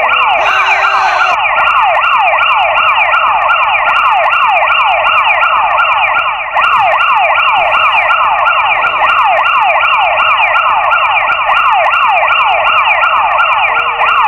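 Electronic siren sounding in quick, repeated falling sweeps, about three a second.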